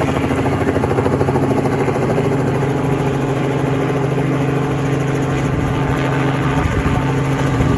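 Helicopter flying low overhead, its rotor beating in a steady, fast chop over the engine's drone.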